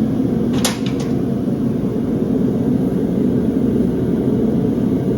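Gas forge burner running with a steady roar, with a single metallic click about a second in.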